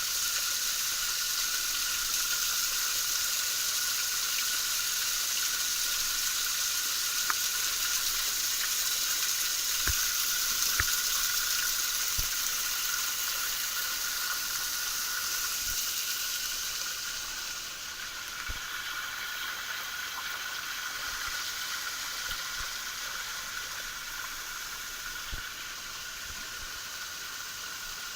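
Small mountain waterfall splashing steadily, its rush a little quieter in the second half.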